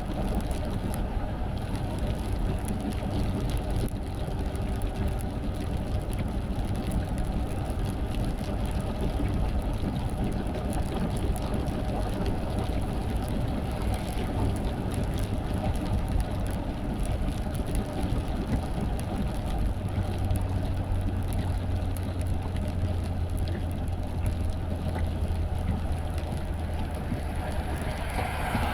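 Steady car road and engine noise heard from inside the moving car, with a low engine drone that grows stronger about two-thirds of the way through.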